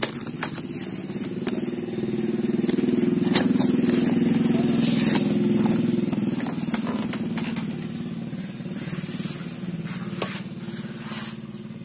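A motorcycle engine running steadily, swelling a few seconds in and then fading, with scattered sharp clicks and rustles over it.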